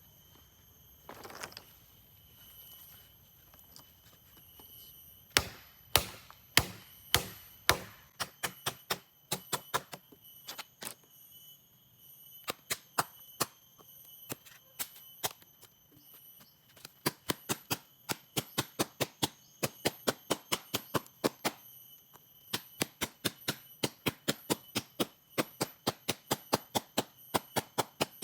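Chopping blows, a blade or tool striking wood, in quick runs of about two to three strokes a second with short pauses, starting about five seconds in.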